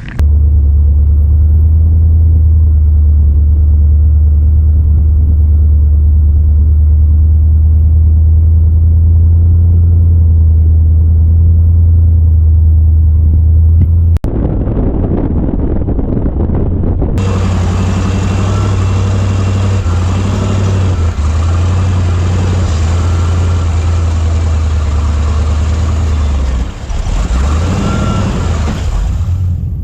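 Rock-crawling buggy engine running loud at low revs: a steady deep drone for the first half, then after a cut about halfway a rougher, busier sound with more hiss and a wavering whine.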